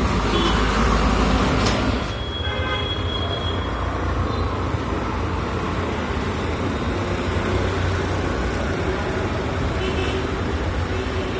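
Road traffic with a heavy diesel truck engine running, loudest for the first two seconds as a vehicle passes close, then a steady low rumble. A brief high tone sounds about two seconds in.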